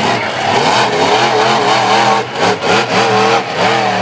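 Monster truck engine revving hard, its pitch rising and falling, with several brief drops in level in the second half.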